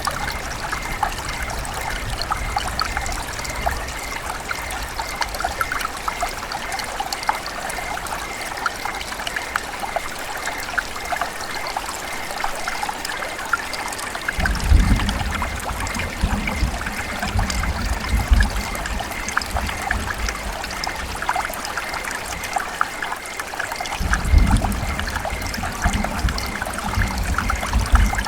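River water running and trickling over rocks in a steady splashy rush. A low rumble swells in twice, about halfway through and again near the end.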